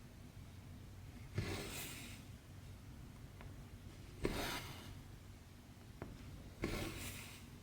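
Cross stitch thread being drawn through 14-count stamped fabric by hand: three rasping pulls a couple of seconds apart, with faint needle clicks between them.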